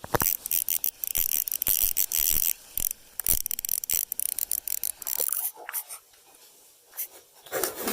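Scratchy rubbing with rapid clicks and knocks from handling rod, line and fish while a fish is landed through an ice-fishing hole. It is dense for about five seconds, then thins to scattered knocks and rustles.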